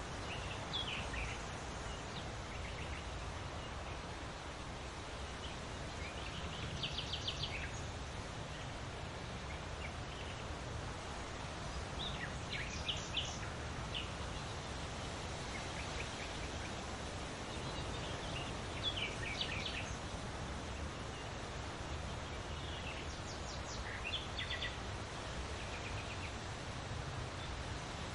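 Birds calling in short bursts of high chirps and trills every few seconds over a steady hissing background.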